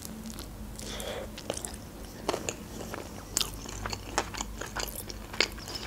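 A person chewing a mouthful of sushi roll close to the microphone, with irregular small mouth clicks, a few louder than the rest.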